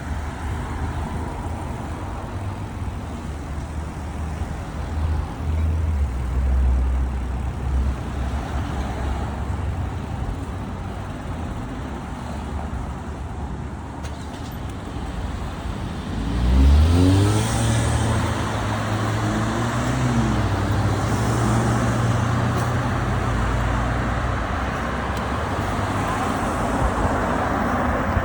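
Road traffic with a steady low rumble. About two-thirds of the way in, a motor vehicle's engine note rises sharply as it accelerates and then holds; this is the loudest moment.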